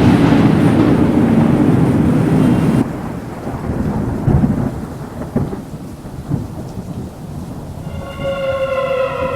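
Thunderstorm with rain: a loud rumble of thunder that cuts off abruptly about three seconds in, then quieter rain with low rumbles and a few thuds. Near the end a drawn-out pitched sound joins in, slowly falling.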